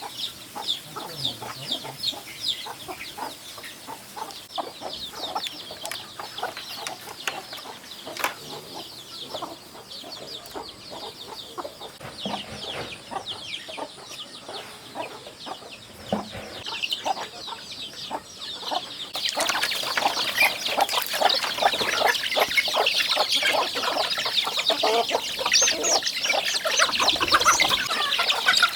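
Chickens clucking and peeping, many short calls overlapping. The calls grow louder and busier about two-thirds of the way in.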